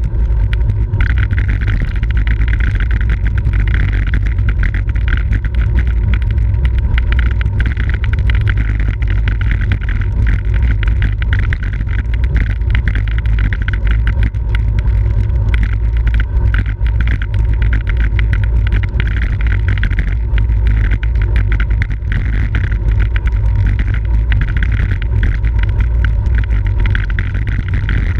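Steady wind rush buffeting a racing bicycle's onboard camera microphone at speed, with many small knocks and rattles.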